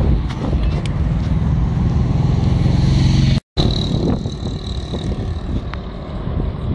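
Wind buffeting the microphone of a camera carried on a moving bicycle, a loud low rumble with scattered clicks and rattles; the sound cuts out completely for a moment about three and a half seconds in.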